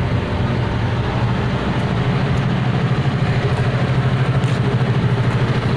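A large engine running steadily, a low hum with an even, fast throb.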